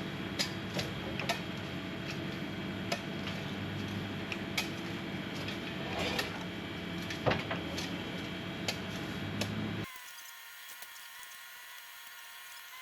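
Steady low machine hum with scattered sharp clicks and knocks. About ten seconds in it cuts off abruptly, leaving a quieter steady tone.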